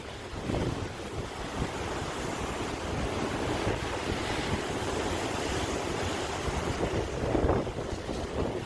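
Sea waves washing in and breaking, with rising and falling surges of surf, the largest near the end, and wind buffeting the microphone.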